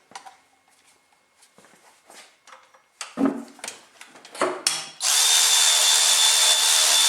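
Scattered metallic clicks and clanks of tools, then about five seconds in a cordless power tool starts and runs at a steady speed with a high whine.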